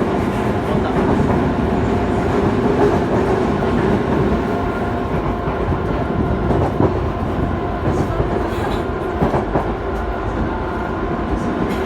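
Yokohama Municipal Subway Blue Line train running on the line, a steady rumble of wheels on rail with a few steady tones over it and several brief clicks a few seconds apart.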